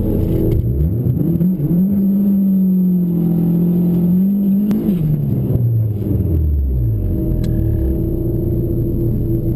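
Drag car's engine revving: it climbs about a second and a half in, holds a steady high rpm for about three seconds, then drops back and runs at lower revs.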